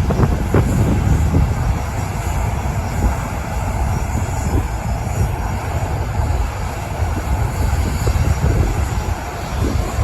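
Jet airliner engines running at idle before the takeoff run, a steady low rumble and rush, with wind buffeting the microphone.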